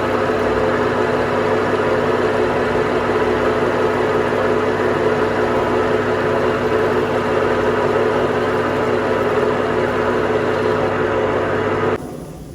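A workshop machine running with a steady, even hum, which cuts off suddenly near the end.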